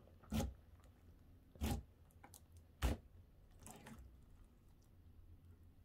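Gooey ooze slime squeezed and poked by hand: four faint, short, wet squishes about a second apart, dull rather than the crisp pops of a regular slime.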